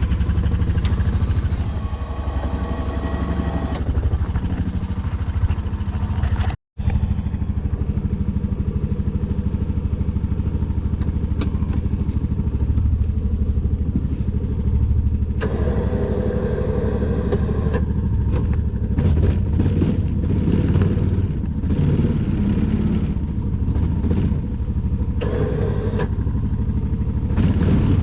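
An engine running steadily under a steady load, with a brief dropout about six and a half seconds in.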